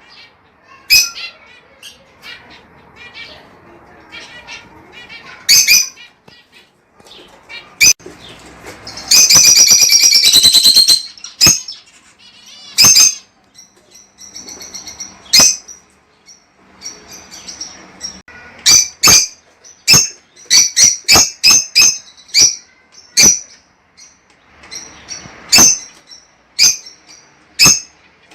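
Lovebirds calling: sharp, shrill single chirps spaced out, a loud burst of rapid chattering about nine seconds in, and a quick run of chirps around twenty seconds in.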